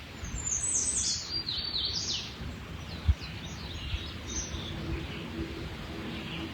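Wild birds singing: a quick run of high chirps stepping down in pitch over the first two seconds, then fainter scattered chirps, over a low steady background rumble. A single brief low thump about three seconds in.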